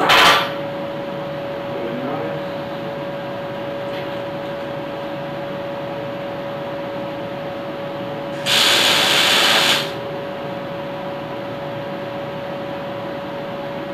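Two tack welds on small steel pieces: the welding arc crackles once very briefly, then again for about a second and a half after a pause, over the steady hum of the welding machine.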